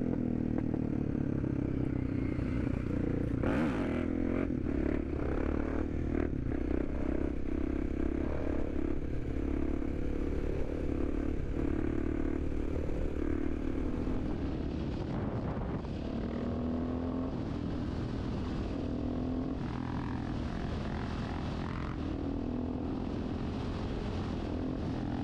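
Supermoto motorcycle engine running steadily, with small changes in pitch.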